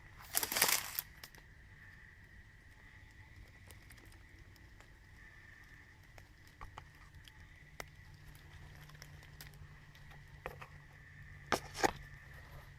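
Brief rustling and crackling in dry leaves and twigs about half a second in and again twice near the end, with scattered small clicks between and a faint steady high tone underneath.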